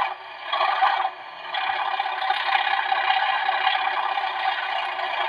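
Sound-fitted OO gauge Class 37 model locomotive playing its recorded English Electric diesel engine sound through the model's small loudspeaker, just after being notched down. The engine sound drops away sharply twice in the first second and a half, then runs steadily. It sounds thin, with little bass.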